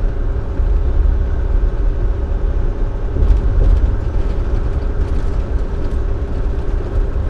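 Volvo D13 diesel engine of a dump truck cruising steadily, heard from inside the cab: an even low drone with steady engine tones and road noise.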